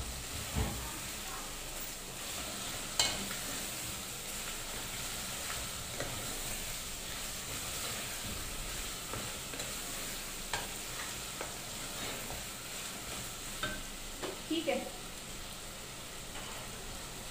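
Potatoes, tomatoes and onions frying in oil in a pot, sizzling steadily while being stirred with a wooden spatula. The spatula knocks against the pot now and then, once sharply about three seconds in and in a short cluster near the end.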